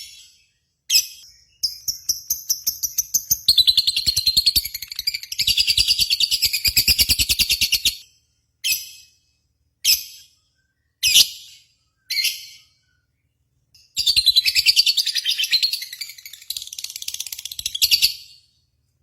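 Bird song from a tutoring recording. Sharp, high single chirps come about a second apart, then a long, very rapid, high chattering trill runs for several seconds. A few more single chirps follow, then a second long trill near the end.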